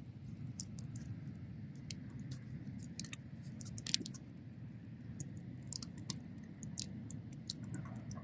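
Wood bonfire crackling: irregular sharp pops and snaps, the loudest about four seconds in, over the steady low rumble of the flames.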